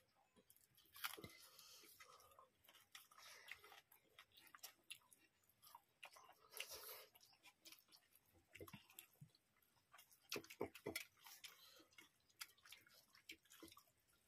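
Faint, irregular chewing and mouth smacks of people eating rice and curry by hand, with scattered sharper clicks.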